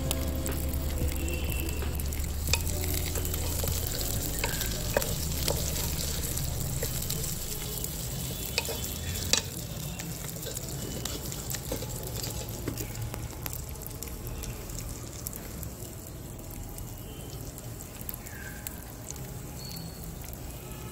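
Brinjal pieces with onion and garlic sizzling in hot oil in an earthen clay pot, with scattered small pops and crackles; the sizzle grows gradually quieter.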